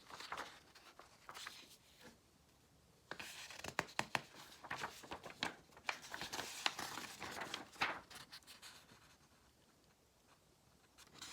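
Paper rustling as the pages of a printed booklet are turned and handled: a short rustle about a second in, then a longer stretch of rustling with small crisp clicks.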